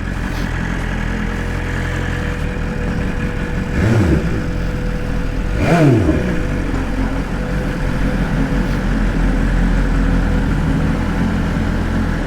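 BMW S1000RR M Carbon's inline-four engine running at low speed, with two quick revs whose pitch drops away about four and six seconds in.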